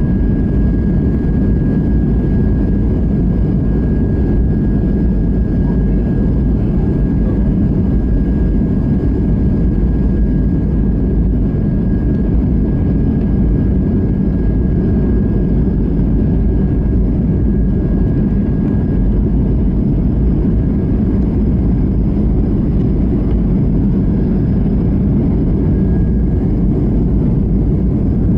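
Steady roar of jet engines and rushing air heard inside an airliner cabin on approach to landing, with a faint high whine that fades out about two-thirds of the way through.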